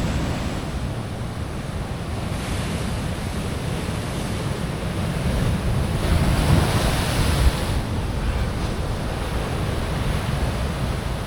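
Heavy ocean surf breaking and washing against a rock ledge, with wind buffeting the microphone; a bigger wave surges in about six seconds in and fades by eight.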